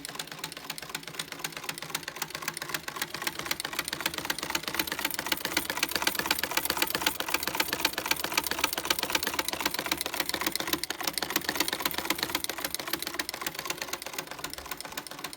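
A 1974 Soviet sewing machine running at a steady speed: a rapid, even clatter from its stitching mechanism that stops suddenly at the end. It is being run to show that it works.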